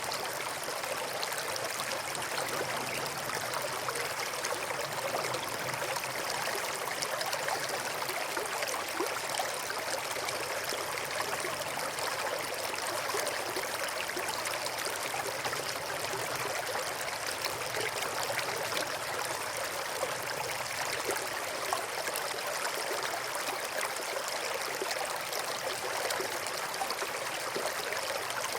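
A river running over rocks: a steady, even babble of flowing water.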